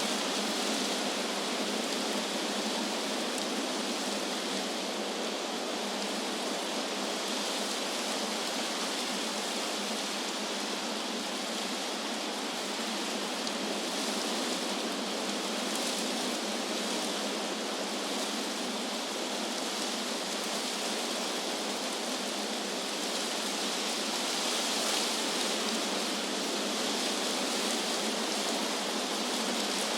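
Wind blowing through tree leaves: a steady rushing hiss that swells slightly now and then.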